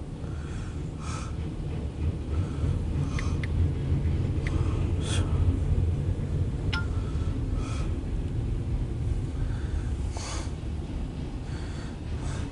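Loaded freight train of autorack cars rolling past: a steady low rumble with scattered clicks and knocks, and a brief squeal about seven seconds in.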